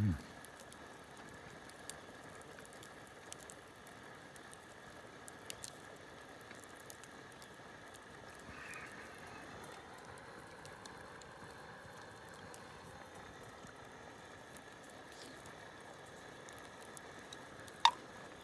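Campfire crackling faintly, with scattered small ticks and pops and one sharp pop near the end, over a low steady outdoor hush. A short low thump at the very start.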